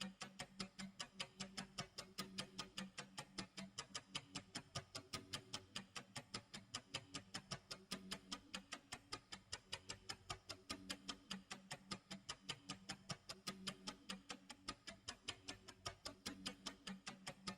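Clock tick-tock sound effect: a steady run of fast, even ticks, about four a second, with a faint low tone coming and going underneath.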